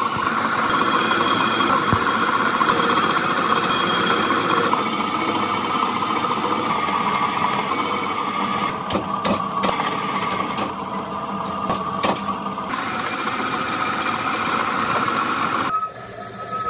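Workshop machinery running steadily with a constant tone, a few sharp clicks or knocks in the middle, and abrupt changes in the sound a few times.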